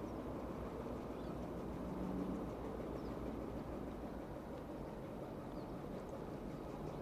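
Diesel freight locomotive engine running steadily at a distance, a low even rumble with a faint hum, and a few faint high chirps.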